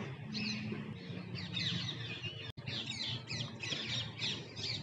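Many birds calling at once in a dense run of short chirps, mostly parrots. The chirping breaks off for an instant about halfway through.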